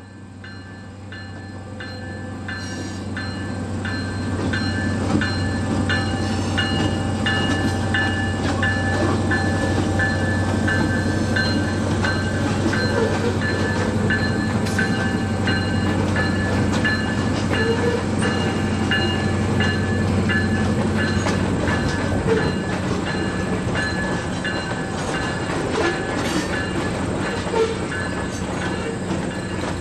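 Slow freight train passing, growing louder over the first few seconds: steel wheels clicking over the rail with recurring high squeals, over a steady low drone.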